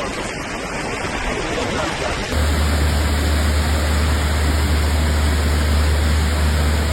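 Heavy rain, heard as a dense steady hiss of downpour. About two seconds in, the sound cuts to a louder clip in which the rain hiss comes with a steady low rumble.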